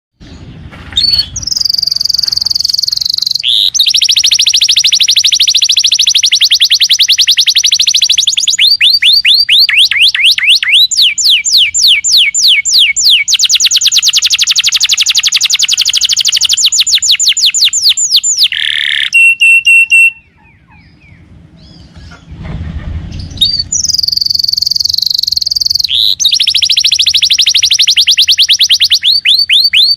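Domestic canary in full song: long runs of very fast repeated whistled notes and trills, some held on one pitch and some sliding downward, with a short break about twenty seconds in.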